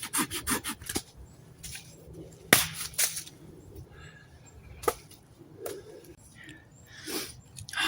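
Hand saw cutting wood in quick back-and-forth strokes that stop about a second in, followed by a few separate sharp wooden knocks or snaps, the loudest about two and a half seconds in.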